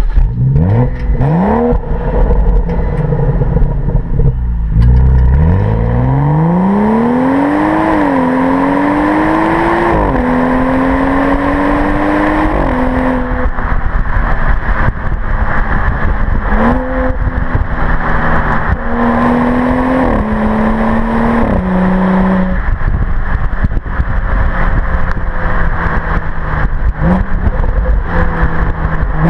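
Exhaust of a 2014 BMW 435i's turbocharged 3.0-litre inline-six, heard from the car. It gives a couple of quick revs, then accelerates hard through three upshifts, the pitch climbing and dropping back at each shift. It then steps up and down with further gear changes and settles to a steady run, with wind and road noise throughout.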